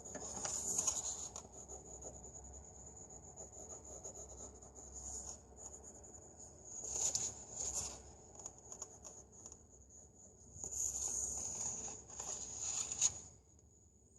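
Pencil scratching on paper in several spells of strokes, over a steady high-pitched whine.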